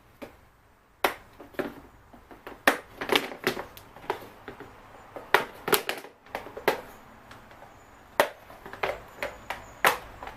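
Plastic air filter housing being worked open by hand: a long run of irregular sharp clicks and knocks as its clips and cover are pried apart.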